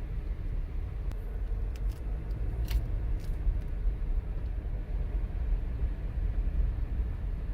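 Steady low rumble of a car with its engine running, with a few faint ticks in the first few seconds.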